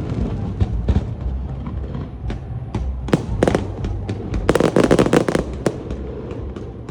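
Fireworks display: scattered sharp bangs of bursting shells, then a dense run of rapid crackling and bangs about four and a half seconds in that lasts about a second, over a steady low rumble.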